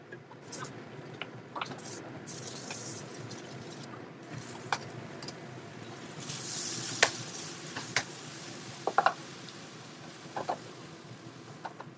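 Thai giant river prawns sizzling in a nonstick frying pan as the sauce reduces, stirred with a wooden spatula. Several sharp clicks and knocks of the utensil against the pan come through, with a louder hiss about six to seven seconds in.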